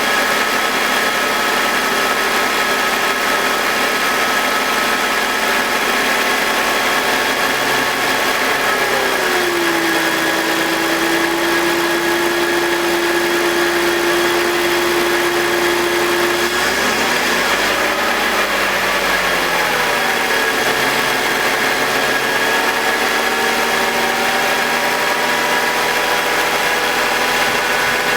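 BMW M52TU B25 2.5-litre inline-six idling with the exhaust VANOS unit disconnected. The VANOS grinding is absent. The hum's pitch drops about nine seconds in, holds, and climbs back up a few seconds later.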